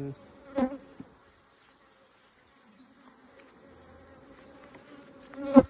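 Honeybees buzzing steadily at an open hive, with a sharp wooden knock about half a second in and a louder one near the end as the hive's frames are pushed together in the brood box.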